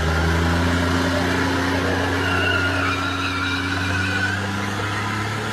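Pickup truck engine held at high revs, steady in pitch, as the truck struggles to climb a boat ramp, with a faint wavering squeal partway through.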